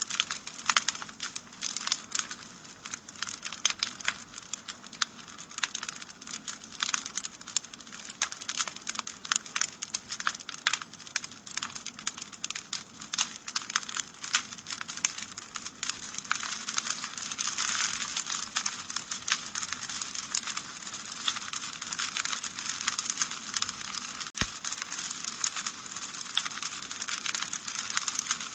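Wood fire crackling in a fireplace: a steady stream of small, sharp pops and snaps from the burning logs. About halfway through, a denser hiss of the flames swells in under the crackle.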